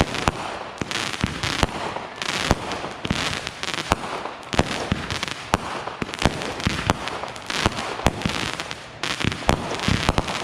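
Consumer fireworks going off in quick succession: many sharp, irregular bangs, several a second, over a continuous hiss.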